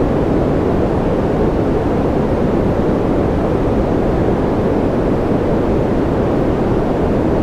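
Steady ambient noise track: an even, deep rushing hiss with no changes or separate sounds.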